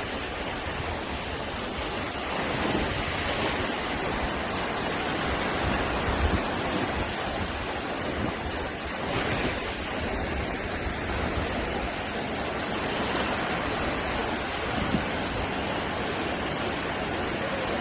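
Ocean surf washing steadily onto a sandy beach, an even rushing noise, with some wind gusting on the microphone.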